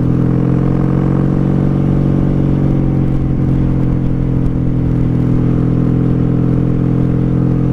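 1995 Honda Magna VF750C's V4 engine running steadily in fifth gear at low road speed, its note holding level with a slight dip about a second or two in.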